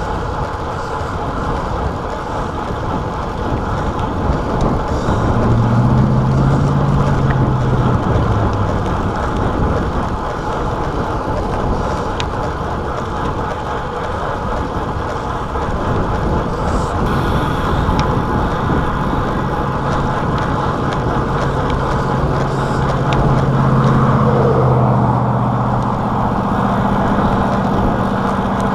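Wind rushing over a chest-mounted action camera's microphone on a road bike at speed, with the hum of motor vehicle engines close by about five seconds in and again from about twenty seconds in.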